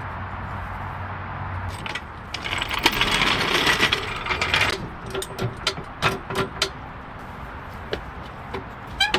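Hand work on metal parts: a rushing noise that lasts about two seconds, then a run of light metallic clinks and knocks.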